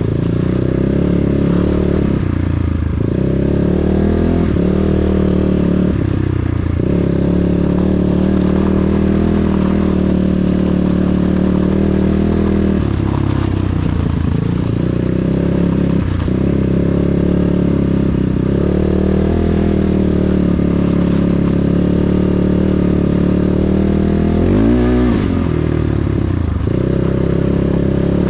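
Enduro motorcycle engine running under throttle on ice, its note holding steady with brief drops every two to four seconds as the throttle is eased, and a quick rev up and back down near the end.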